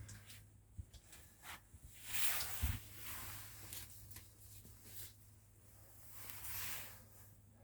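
Quiet handling noise: soft rustling swells with a few light knocks and clicks.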